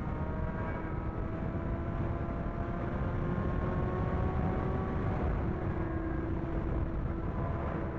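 Sport motorcycle engine under way, its pitch climbing slowly for about five seconds, then dropping at a shift and holding steady, over a steady low rumble of road and wind noise.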